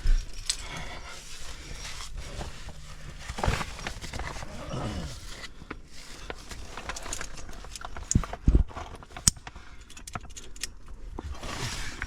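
Climbing gear on a harness clinking and jangling, with scattered scuffs and sharp knocks as the climber moves on the rock; a cluster of louder knocks comes about eight to nine seconds in.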